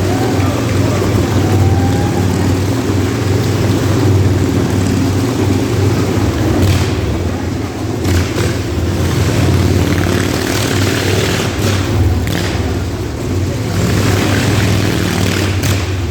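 Motorcycle engines running continuously at fairly steady revs as the bikes circle inside a motorbike roulette drum, a loud unbroken drone.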